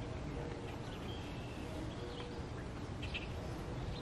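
Steady low background rumble with a few faint, short bird chirps.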